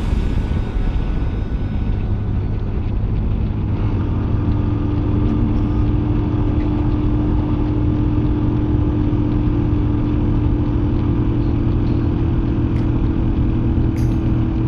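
Motorcycle engine running on the move with road and wind noise; about four seconds in the engine note settles into a steady, even hum at a constant speed.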